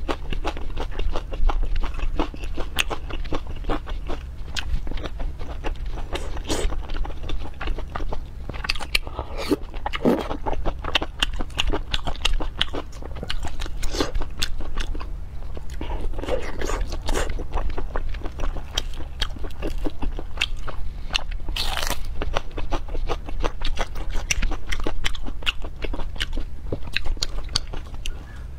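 Close-miked chewing and wet, sticky mouth sounds of someone eating glazed pork belly: a dense, continuous run of small smacks and clicks, with a few longer slurping smears.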